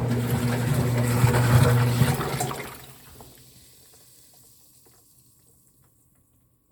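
Frigidaire washing machine running, its motor humming under the churning and sloshing of water in the tub. About two and a half seconds in the motor stops and the water noise dies away to near silence.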